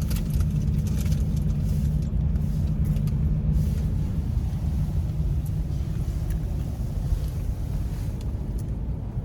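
Steady low rumble of road and drivetrain noise heard inside the cabin of a 2023 Honda CR-V Touring Hybrid on the move.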